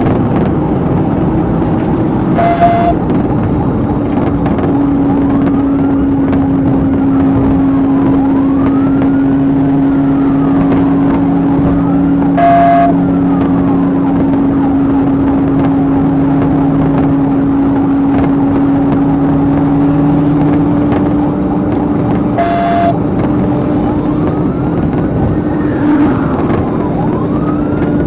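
Police car siren wailing up and down behind the steady drone of a car driving at speed, with a short beep about every ten seconds.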